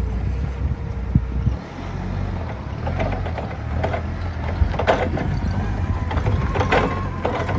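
Toyota forklift running, a steady low engine rumble with sharp mechanical clanks and knocks a few seconds in, and a faint steady whine near the end.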